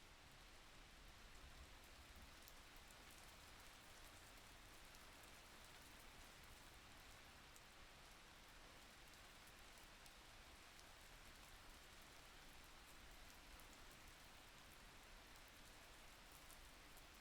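Faint, steady rain falling, an even hiss with many small drop ticks.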